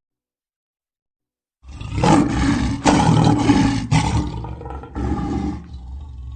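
An animal's roar sound effect in several rough surges, starting about a second and a half in and trailing off softer near the end.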